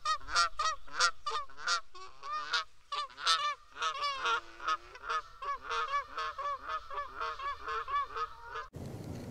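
Black-necked swans calling: a rapid series of short honking calls, about three a second. Near the end the calls stop abruptly and a lower, louder animal sound begins.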